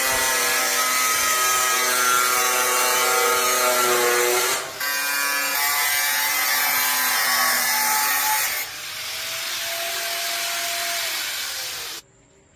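Handheld power tool running under load against a workpiece: a whine over a hiss of abrasion. It breaks off briefly about four and a half seconds in, runs on quieter from about nine seconds, and cuts off suddenly near the end.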